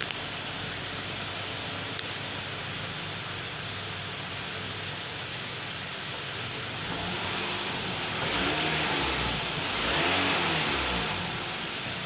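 Toyota RAV4 engine idling steadily, then revved twice near the end, its pitch rising and falling each time.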